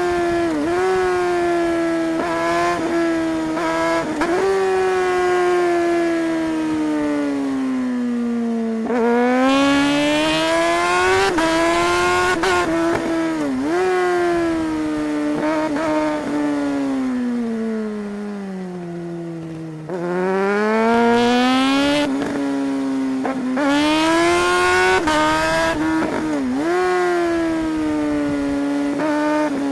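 Suzuki GSR 600 K8 inline-four engine pulling hard through the gears, its pitch climbing and dipping sharply at each upshift. Twice it winds down slowly off the throttle and then climbs again as the rider accelerates.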